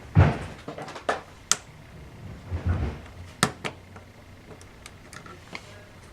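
Plastic pry tool working at the edge of a laptop keyboard: scattered sharp clicks and taps of plastic on plastic, with a couple of duller knocks about halfway through.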